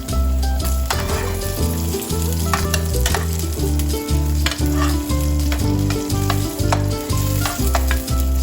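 Food frying and sizzling in hot oil in a pan, with stirring, under background music with a steady beat.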